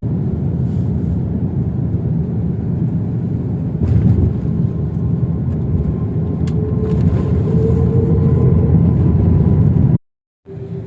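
Airliner cabin noise on landing: a steady, loud rumble from the jet engines and the airflow. It gets louder about four seconds in, and a faint whine shows around the middle. The sound cuts out for half a second near the end.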